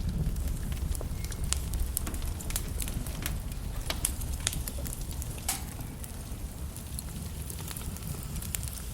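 Wood logs burning in a fireplace: irregular crackles and sharp pops over a steady low rumble of flame, with one louder pop about five and a half seconds in.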